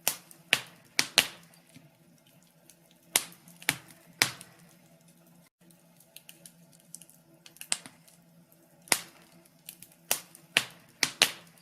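Wood fire crackling in a fireplace: irregular sharp pops and snaps, some louder than others, over a faint steady background.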